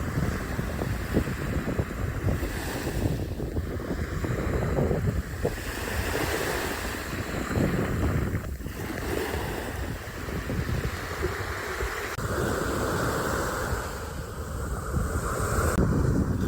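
Wind buffeting the microphone over a steady rush of water like surf. The sound changes abruptly about twelve seconds in and again near the end.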